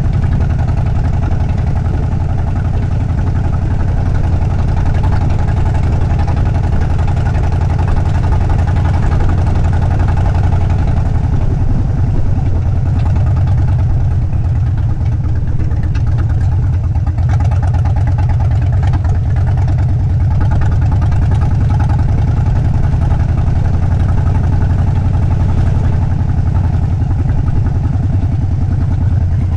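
Harley-Davidson motorcycle's V-twin engine running steadily, its exhaust pulses even, with no revving.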